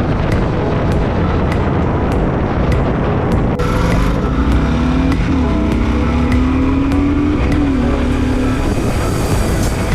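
Motorcycle running at road speed with heavy wind noise on the microphone; about halfway through, a pitched engine note rises and then drops back.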